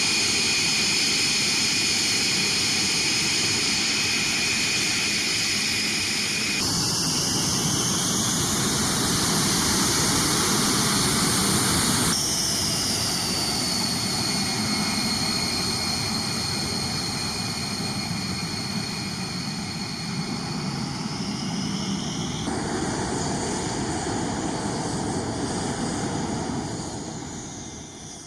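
Jet engines of a B-1 bomber: a steady turbine roar with a high whine, changing abruptly at a few points as shots are cut together. About twelve seconds in, the whine drops in pitch, and the noise fades away near the end.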